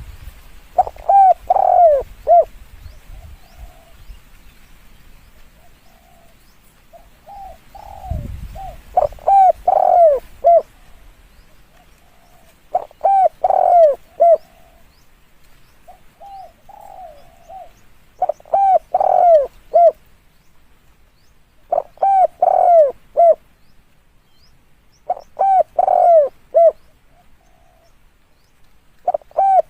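Spotted dove cooing: a phrase of several arched coo notes repeated every three to four seconds, with fainter coos in between. A brief dull thump about eight seconds in.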